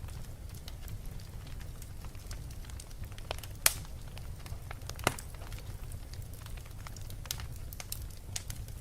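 Wood fire burning in a fireplace: a steady low rumble with scattered crackles and two sharper pops, about a second and a half apart near the middle.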